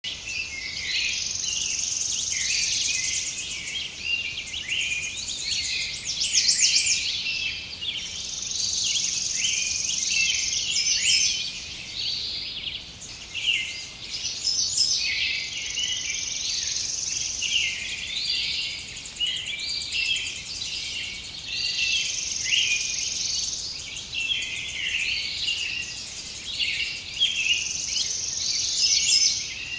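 A dense chorus of small birds chirping and twittering over a high, shrill insect buzz that swells up every six or seven seconds.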